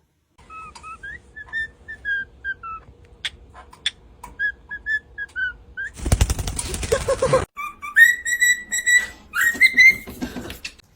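Parrot whistling a run of short notes, then a harsh rasping burst lasting about a second and a half, followed by louder, longer whistles near the end.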